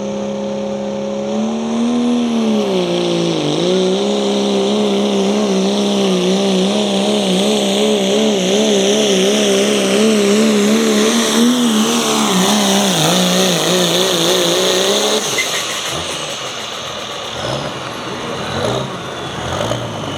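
Pulling vehicle's engine running flat out under heavy load as it drags the weight sled, its pitch wavering up and down about twice a second. About 15 seconds in the engine note drops away as the throttle comes off at the end of the pull, leaving a lower, uneven rumble.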